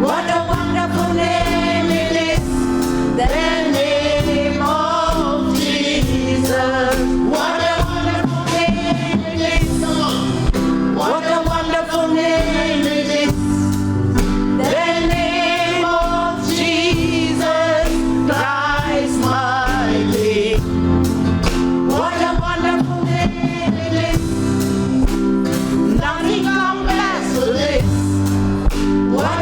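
Live gospel choir singing with vibrato over steady band accompaniment and a regular beat.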